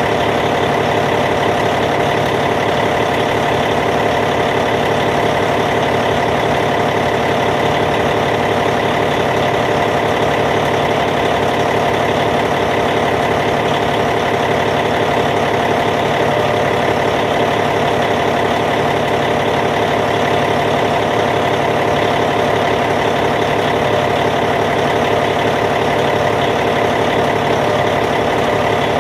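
Caterpillar C15 diesel engine in a D8T bulldozer idling, steady and unchanging.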